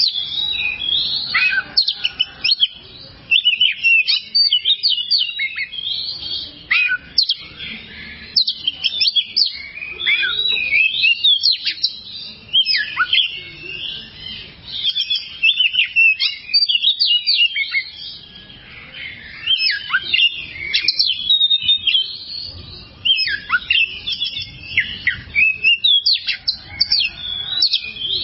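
Oriental magpie-robin (kacer) singing a long, fast, varied song of sharp whistled notes and chirps, many sweeping down in pitch, broken by short pauses.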